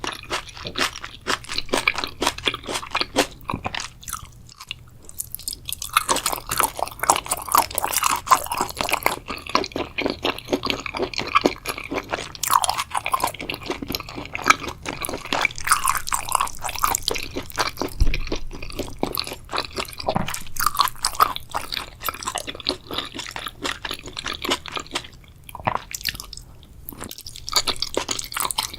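Close-miked chewing and biting of a spicy seafood dish, dense with wet crunches and squishy clicks in quick succession. There are brief pauses a few seconds in and again near the end.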